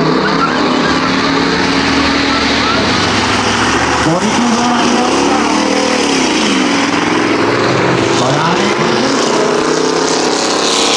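Several V8 stock cars racing around a short oval, their engines running loud. The engine notes rise and fall as the cars pass and come through the turns.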